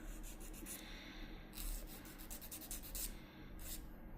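A nail file rubbing against a fingernail in short, irregular scratchy strokes, faint.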